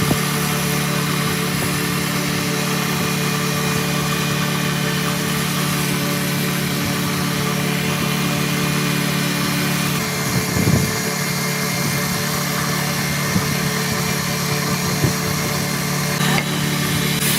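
A machine's motor running steadily with a constant hum, with a few light knocks about ten, thirteen and fifteen seconds in.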